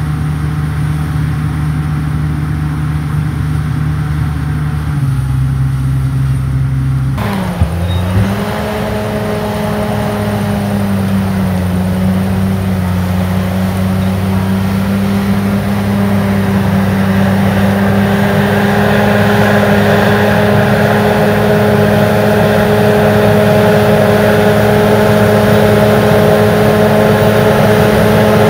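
Bulldozer's diesel engine running steadily with a low, even note. About seven seconds in the sound changes abruptly, with a short knock, and the engine then holds a new steady note that grows slowly louder toward the end.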